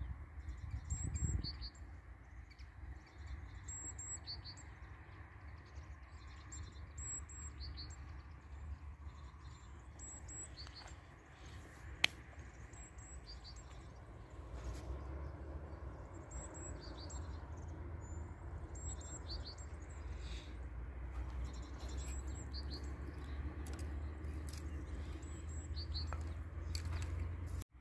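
A small bird chirping repeatedly in short, high notes, one every second or two, over a low steady rumble. A single sharp click about twelve seconds in.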